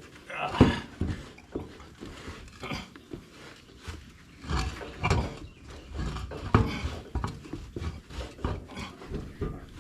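A man grunting and straining while wrestling a heavy tractor tire into place on the hub, with irregular knocks and scrapes as the wheel shifts.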